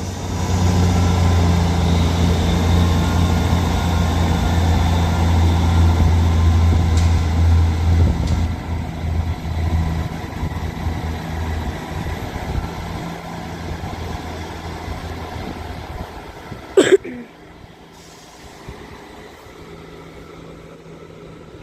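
A double East Midlands Railway Class 158 diesel multiple unit pulling away from the platform, its diesel engines running under power with a steady low drone. The drone fades over the second half as the train moves off. About three-quarters of the way through comes one short, loud, sharp sound.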